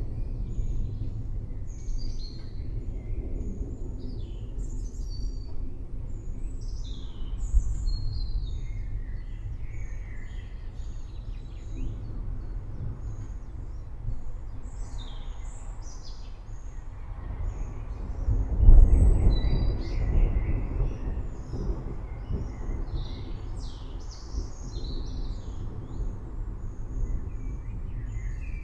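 Many birds chirping and calling over a low, steady rumble of a thunderstorm, with a roll of thunder swelling and fading about two-thirds of the way through.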